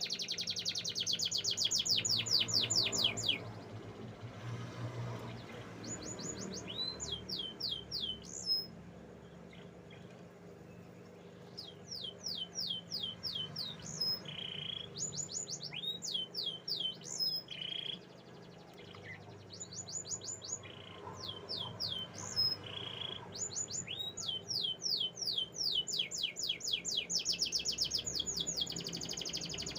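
Domestic canary singing: fast trills of quickly repeated high, falling notes, about eight to ten a second. The trills come in phrases of a few seconds, broken by short pauses and a few single sharper notes.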